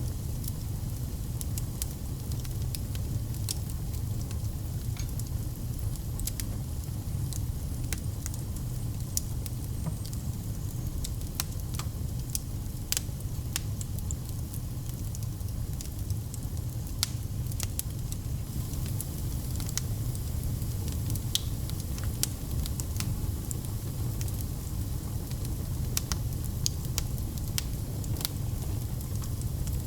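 Fireplace fire crackling, with irregular sharp pops and snaps over a steady low rumble of burning.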